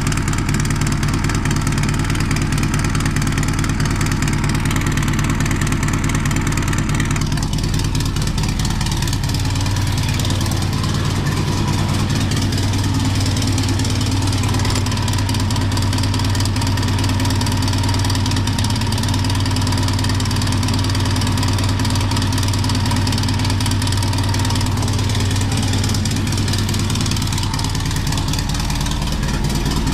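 1956 Volkswagen Beetle's air-cooled flat-four engine idling steadily after a hard cold start, its front cylinders running cooler than the rear and number one really cold. The note shifts about seven to nine seconds in, then holds steady.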